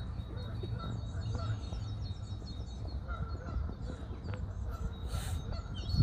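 Waterbirds calling with scattered short calls, with fainter high chirping from small birds, over a steady low rumble. There is a brief rushing noise about five seconds in.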